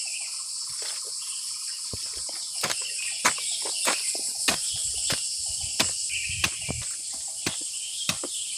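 Steady high chirring of forest insects, crickets among them. From about two and a half seconds in, sharp irregular taps come one or two a second and stand out above the chirring.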